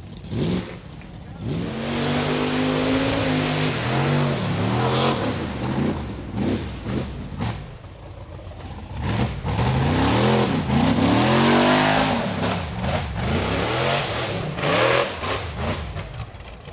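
Rock bouncer buggy's high-horsepower engine revving hard on a hill climb, its pitch rising and falling again and again as the throttle is worked, over a steady hiss.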